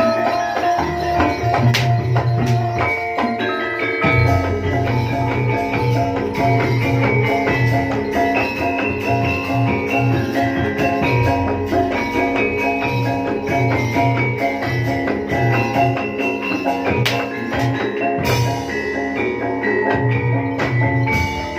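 Live Javanese jaranan gamelan music: bronze mallet instruments and gongs ringing over a repeating low beat.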